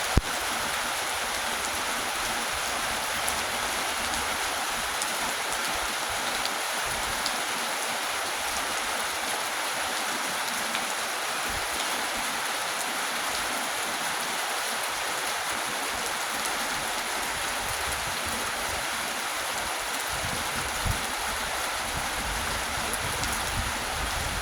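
Steady rain falling: an even hiss with scattered tiny drop ticks, and a few low rumbles near the end.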